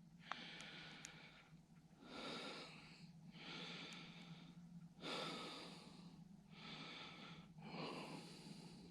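A man breathing heavily in slow, rhythmic breaths, in and out, each lasting about a second.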